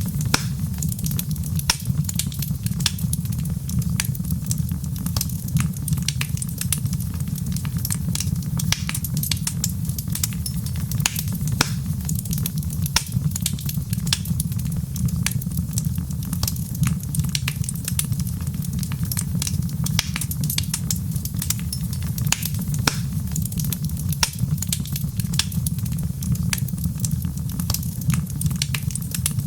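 Fireplace fire crackling: dense, irregular pops and snaps over a steady low rumble.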